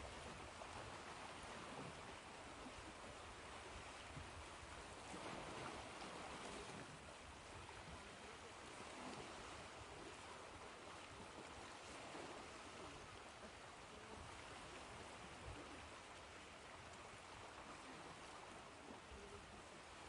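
Faint ocean surf: a steady hissing wash of waves with gentle, slow swells in loudness.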